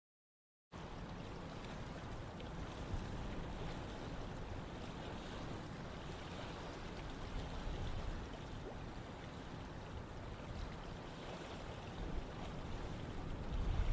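Running water of a river or stream: a steady rushing wash with a low rumble. It cuts in after a brief moment of total silence at the very start.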